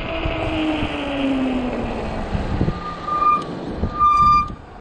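E-bike brakes squealing in two loud, high-pitched bursts in the second half, after a low whine that falls steadily in pitch. The brakes are working poorly, which the rider blames on the cold.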